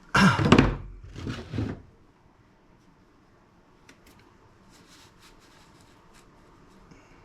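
Two loud clattering knocks of hard objects being handled and set down, then faint light clicks and taps.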